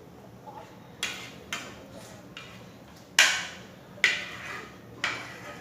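Eating sounds at a meal: about five sharp clicks and taps spread over a few seconds, the loudest a little past three seconds in.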